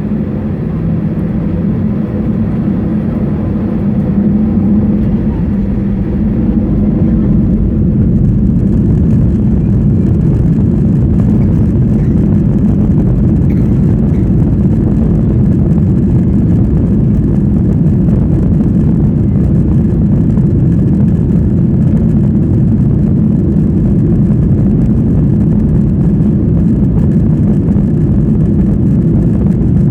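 Boeing 737-800's CFM56 turbofan engines at high takeoff thrust, heard inside the rear cabin as a loud, steady rumble with a low hum. It grows louder over the first several seconds, then holds steady.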